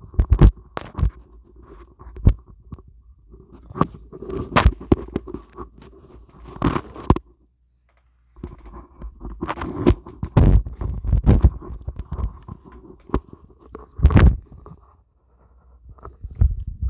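A microphone being handled and repositioned: irregular knocks, bumps and scraping rubs against the mic. About seven seconds in, the signal cuts out completely for about a second, then the handling noise resumes.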